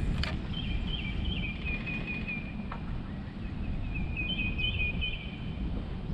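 A songbird singing: two runs of short, quickly repeated high notes at two pitches, about a second in and again about four seconds in. Underneath is a steady low rumble, and there is a brief click right at the start.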